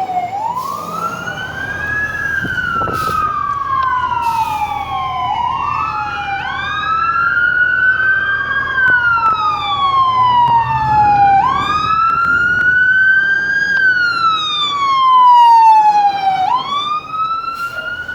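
Fire engine sirens wailing in slow cycles, rising quickly and falling slowly about every five seconds. Two sirens sound slightly out of step, over the rumble of a truck engine.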